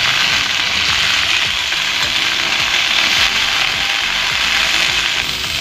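Cauliflower florets sizzling steadily as they fry in oil in a metal kadhai, turned now and then with a metal spatula.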